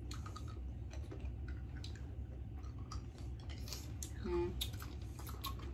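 Mouth sounds of a person eating a big candy: scattered small clicks and smacks of chewing and sucking, with a brief hummed "mm" about four seconds in, over a steady low hum.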